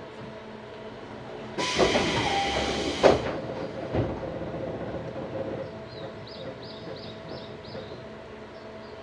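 Doors of a Tobu 634-series train opening at a station stop: a sudden loud hiss of air lasting about a second and a half, ending in a sharp knock, with a second knock a second later. Near the end, a bird chirps about six times, heard through the open doors.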